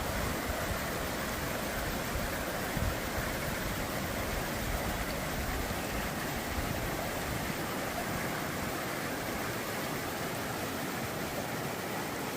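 Steady rush of running water, with a few low bumps in the first three seconds.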